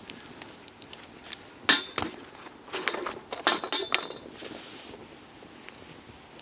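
Hard objects being handled and knocking together: a couple of sharp knocks about two seconds in, then a quick run of clinks a little later, one of them with a brief metallic ring.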